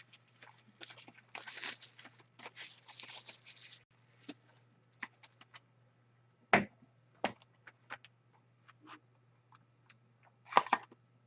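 Foil wrappers of Upper Deck Series 1 hockey card packs crinkling and tearing open, followed by scattered sharp clicks and taps as the cards are handled. A steady low hum runs underneath.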